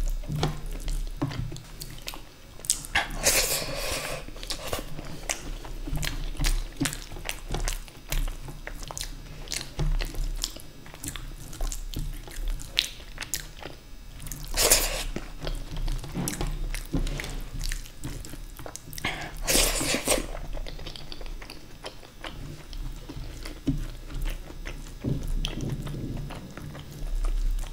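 Close-miked chewing with many small wet mouth clicks as a man eats rice and dal makhani by hand, along with his fingers squishing the rice and dal together on the plate. Three louder hissy sounds stand out, about three, fifteen and twenty seconds in.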